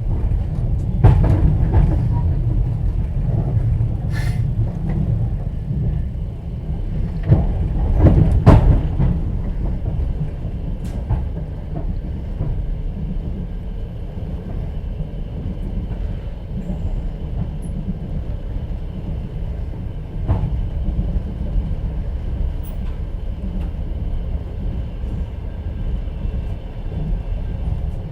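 Moving passenger train heard from inside a platzkart sleeper carriage: a steady low rumble from the wheels and running gear, with several sharp wheel knocks in the first half that ease into quieter, even running.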